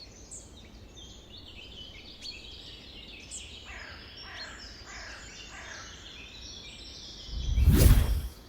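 Many birds chirping and calling together, with a run of four falling calls in the middle. Near the end a loud rush of noise, about a second long and strongest in the low end, briefly drowns them out.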